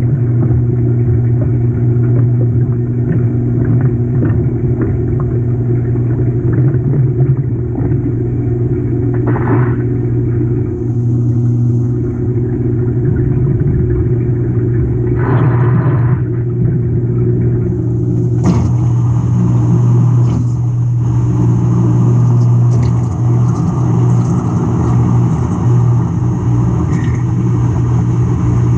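GE GTW220ACKWW top-loading washer running with a loud, steady low hum from its drive, heard from inside the tub on the agitator. A short hiss about 15 seconds in and a sharp knock a few seconds later.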